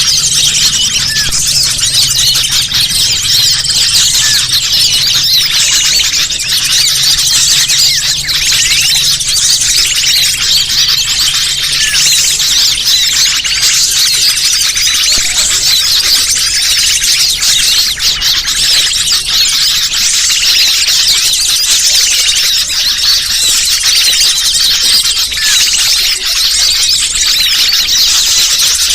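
Bird-lure recording of many small birds chattering and twittering at once: a dense, unbroken mass of rapid high-pitched calls, played loud and steady to draw wild birds in.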